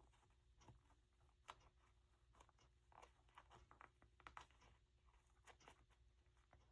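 Faint rustling and small scattered clicks of paper and lace being handled and pressed into place, over a low room hum.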